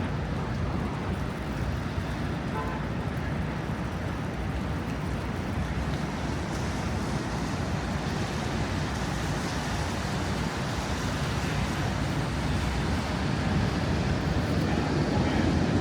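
Steady wind noise buffeting the microphone, mixed with city street traffic, growing louder near the end.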